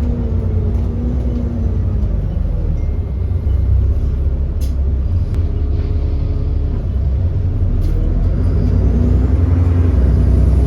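Cummins ISB 6.7-litre diesel of an Alexander Dennis Enviro400 bus running with a heavy low rumble. The engine note falls as the revs drop near the start and climbs again near the end as it pulls. The bus has an exhaust leak.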